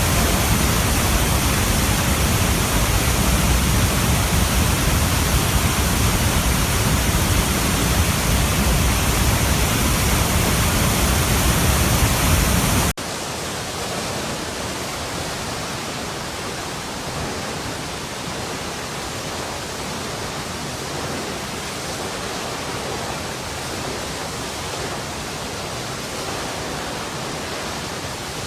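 Steady rush of running water. About 13 seconds in it cuts abruptly to a quieter, thinner water sound with less low rumble.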